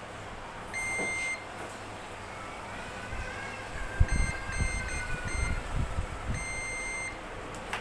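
Digital multimeter continuity buzzer beeping as probes touch points on a circuit board: one half-second beep about a second in, a quick string of short beeps in the middle, and another beep near the end. Low knocks and handling noise come with the short beeps, the sharpest knock just before them.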